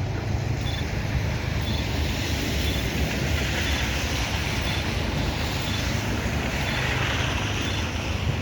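A train passing: a steady rumble and rush of wheel noise that grows stronger and brighter in the second half. A faint short high beep repeats about once a second.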